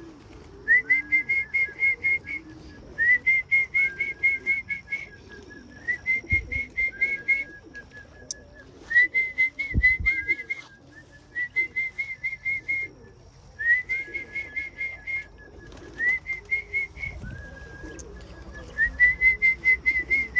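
A person whistling a rapid trilled call again and again in short bursts, calling young racing pigeons in to the loft. Pigeons coo softly underneath, and there are two dull thumps.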